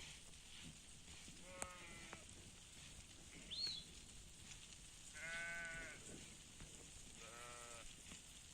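A flock of sheep bleating: three bleats, the one about five seconds in the longest and strongest. A short high chirp cuts in between them at about three and a half seconds.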